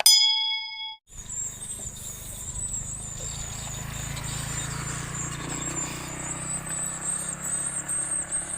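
A dense, steady chorus of high swiftlet chirping fills the swiftlet house, over a low rumble. It starts about a second in, after a brief electronic beep.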